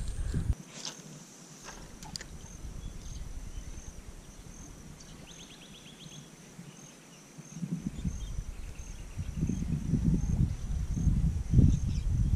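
An insect chirps steadily in high, evenly spaced pulses, with a brief faster trill about halfway through. Wind starts buffeting the microphone with a low gusty rumble about two-thirds of the way in.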